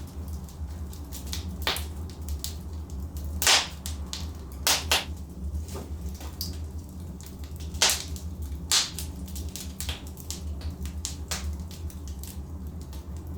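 Logs burning in a fireplace, crackling with irregular sharp pops, several louder ones about a third of the way in, near the middle and about two-thirds through, over a steady low rumble of the flames.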